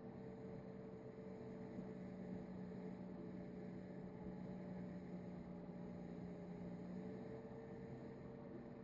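Faint steady hum over low background hiss, its pitch shifting about seven seconds in.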